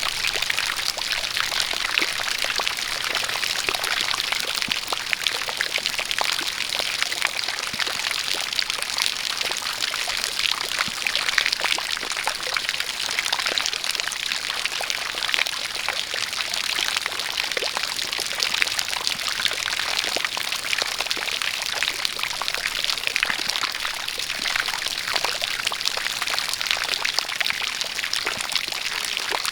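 A jet of water pouring and splashing steadily, with rain falling and many fine drop ticks throughout.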